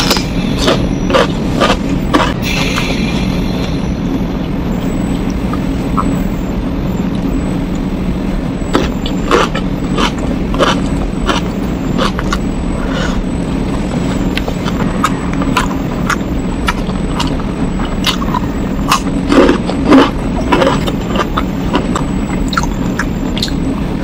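Close-miked eating sounds: chewing and wet mouth clicks scattered through, louder for a moment a little before the end, over a steady low hum.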